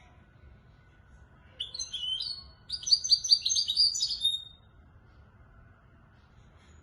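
European goldfinch singing in the Moroccan Marrakchi style: a quick twittering phrase starts about one and a half seconds in and runs into a rapid string of trilled notes, about three seconds in all. A faint low hum sits under it.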